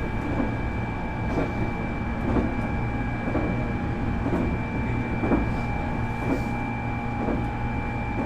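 Nankai 8300-series electric train running at a steady speed, heard from inside motor car Moha 8361. Its Hitachi IGBT VVVF inverter and totally enclosed induction motors give a steady whine of several held tones over the rumble of the running gear, with wheel clicks over rail joints roughly once a second.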